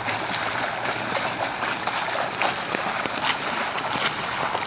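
Heavy rain pouring steadily, an even hiss with scattered drips and splashes.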